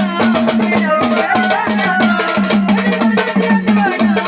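Instrumental break in a Marathi gondhal devotional song: drums and rattling percussion playing a fast, even rhythm.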